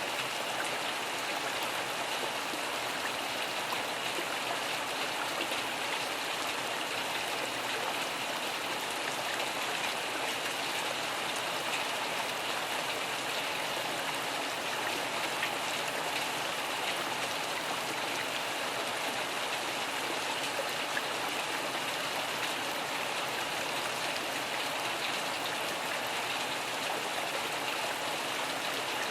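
Steady, even rain falling, a dense hiss of drops with no thunder.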